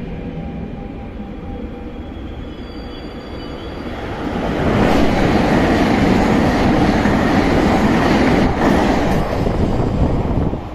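Regio 2N double-deck train passing along the platform. Its rumble builds about four seconds in, stays loud with wheel and rail noise for about six seconds, and drops off near the end.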